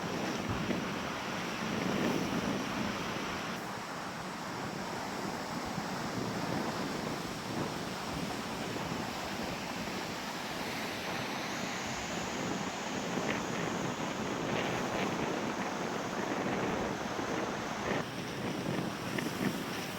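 Lake waves washing steadily onto the beach, with wind buffeting the microphone.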